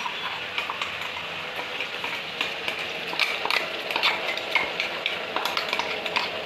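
Oil sizzling in a pan of fried onions while a spoon scrapes and clinks repeatedly, as ground onion-ginger-garlic paste is added.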